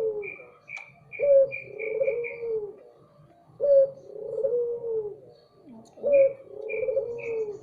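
A dove cooing: a low, slightly bending coo of about a second, repeated three times at a steady pace, over runs of short, high, quick chirps from a small bird.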